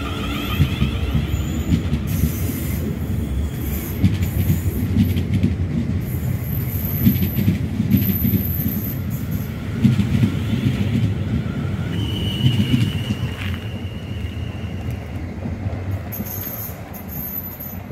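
South Western Railway electric multiple unit running past along the platform: a steady low rumble of wheels on rail, clicking over the rail joints, with thin high wheel squeal. A clearer squeal tone holds for a few seconds about two-thirds of the way through.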